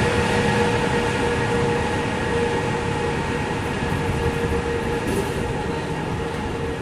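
Passenger train hauled by an EP2K electric locomotive rolling along the track: a steady rumble with a constant hum of several fixed tones, slowly getting quieter.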